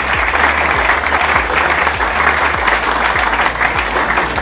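Crowd applauding, many people clapping at once without a break.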